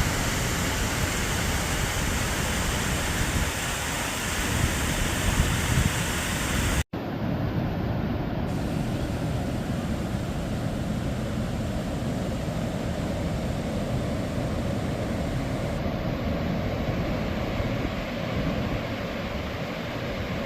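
Steady rush of a waterfall and its river. About seven seconds in the sound cuts out for an instant, then goes on duller, with less hiss.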